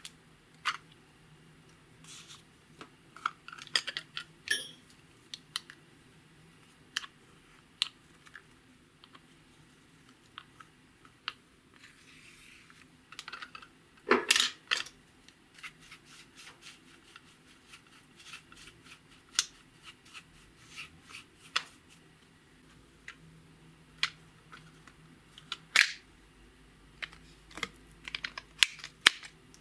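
Clear slime being worked by hand, giving irregular sharp clicks and small pops, with a louder cluster about halfway through.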